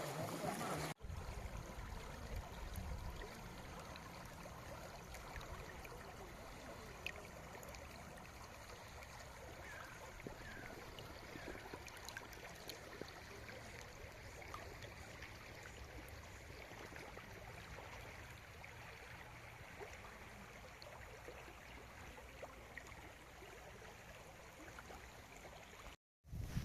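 Faint, steady rush of a flowing stream.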